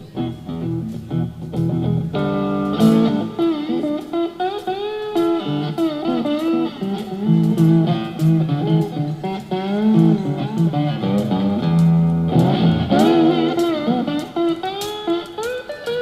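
Live blues band playing an instrumental intro: an electric guitar lead with sliding, bending notes over sustained low notes and a steady beat.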